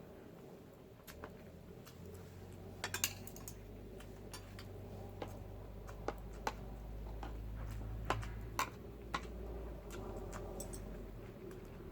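Wood fire crackling under the frying pan, with irregular sharp pops, several close together about three seconds in and around eight to nine seconds in, over a low steady rumble.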